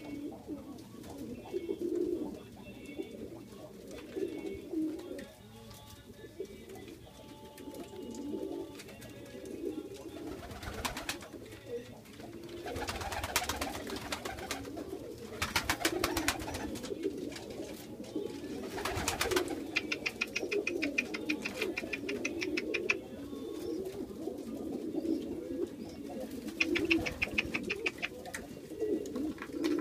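Many Iraqi pigeons cooing continuously, with several short, louder noisy bursts over the middle and later part.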